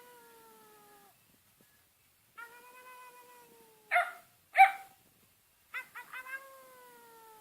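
A Boxer–Dalmatian mix dog giving long whining howls that slowly fall in pitch, some opening with a few quick stuttering yelps. About four seconds in it breaks into two sharp, loud barks half a second apart, then starts another long falling howl.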